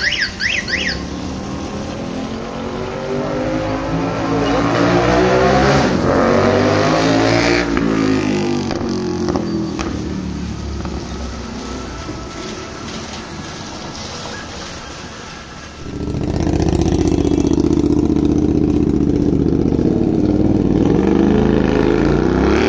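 Motorcycle with a loud aftermarket exhaust running: its engine note climbs for a few seconds, falls away and fades, then about sixteen seconds in comes back suddenly loud and holds a steady high note.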